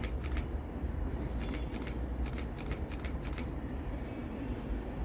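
Camera shutter firing: one click near the start, then a rapid run of about six clicks between about one and a half and three and a half seconds in, over a steady low rumble.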